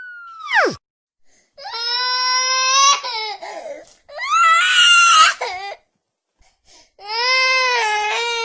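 Crying sound effect: three long, high-pitched wailing sobs, each wavering in pitch. Just before them, a falling tone from the previous effect drops away sharply within the first second.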